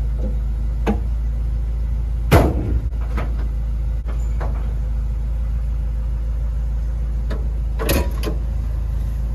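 Jeep Wrangler YJ's 2.5-litre inline-four idling steadily, running again on a freshly replaced fuel filter. A few knocks sound over it, the loudest about two and a half seconds in and a small cluster near the end.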